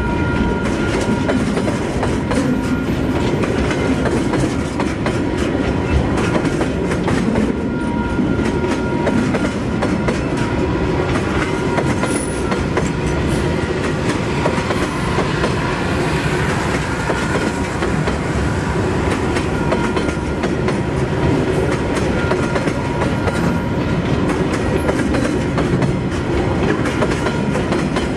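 Freight train of wagons loaded with shipping containers rolling steadily past, its wheels clattering over the rail joints in a continuous clickety-clack.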